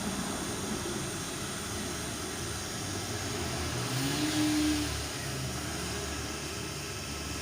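Hair dryer blowing steadily, heating a car headlamp housing to soften its sealant glue. A brief rising hum comes a little after four seconds in.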